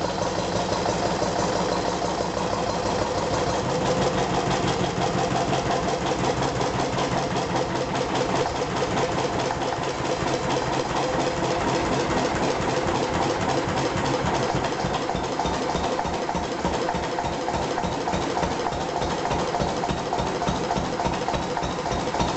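Single-cylinder 3hp Lister stationary diesel engine running steadily at idle, its firing a steady, even beat, with its injector pump freshly freed up after about ten years without running.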